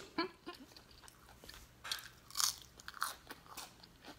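A person chewing and crunching food close to the microphone, with a few louder crisp crunches in the second half.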